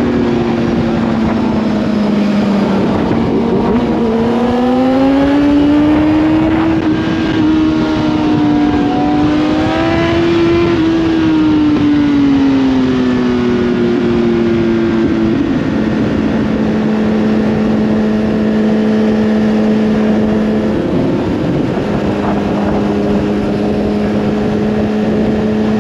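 Kawasaki Z800's inline-four engine running at high revs while riding, with wind rushing over the microphone. Its pitch climbs and falls twice as the throttle is opened and eased, then holds steady, with a brief dip near the end.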